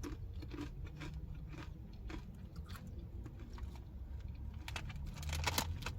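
Crunchy snack chips being bitten and chewed close to the microphone: a run of sharp crunches, loudest about five seconds in.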